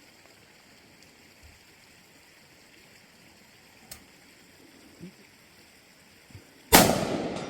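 A quiet stretch of faint outdoor hiss, then a single loud gunshot near the end, its report echoing and dying away slowly.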